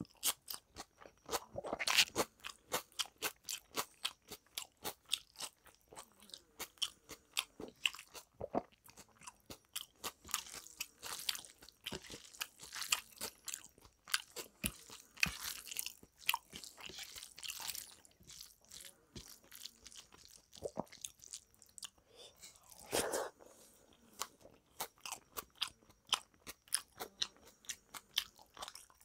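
Close-miked mouth sounds of a man eating rice and dal with fried vegetables by hand: quick, steady chewing with wet clicks, smacks and soft crunches. There is one louder crunch late on.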